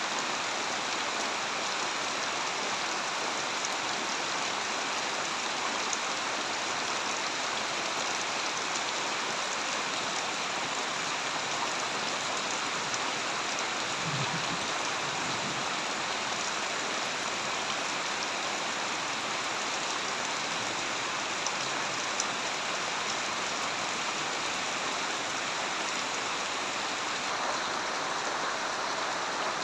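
Steady heavy rain falling on a surface, an even hiss with scattered drop sounds, and a brief low rumble about halfway through.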